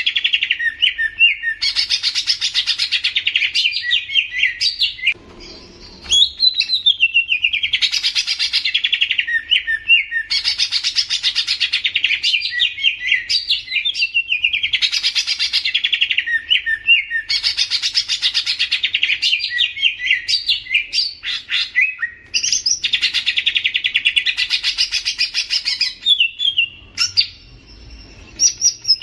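A songbird singing loud, dense phrases of rapid chirps and trills, each lasting two to three seconds, with short pauses between phrases.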